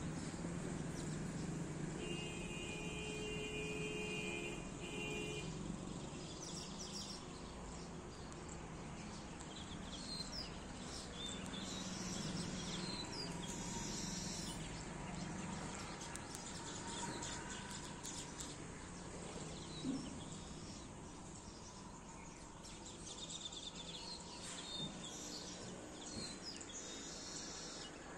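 Birds chirping now and then over a steady outdoor background hum, with a brief steady whine of unclear source about two seconds in.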